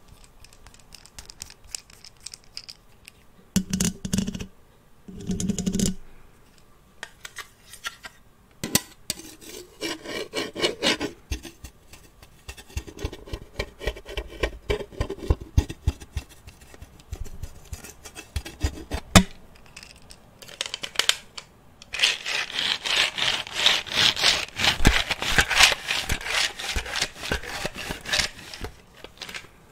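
Close-miked rubbing and scratching on an object, in rapid fine strokes, getting loudest and densest near the end, with two short duller bursts near the start.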